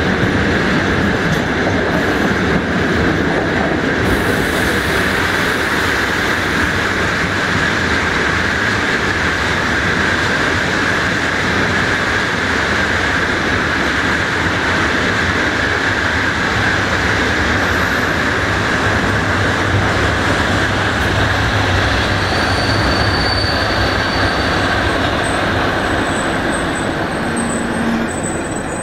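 Steady rolling noise of a passenger train running on the rails, heard from an open coach window. Thin high-pitched wheel squeals come in briefly twice in the later part.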